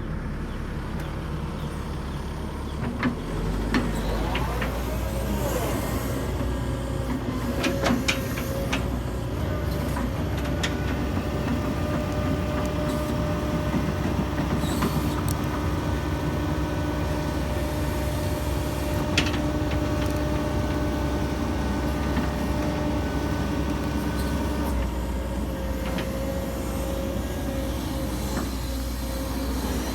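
Hitachi 135US excavator running its diesel engine steadily under load while it tracks up a slope under its own power, without bracing on its bucket. The engine note steps up about three seconds in, and sharp metallic knocks from the tracks and undercarriage come now and then.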